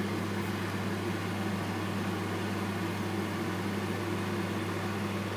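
A 2 kW electric fan heater running steadily on its partial-heat setting, its fan giving an even, low hum.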